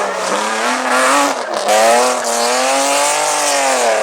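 Hillclimb race car's engine at full throttle, revs climbing, a brief break about one and a half seconds in as it shifts gear, then the pitch rising again and falling away near the end.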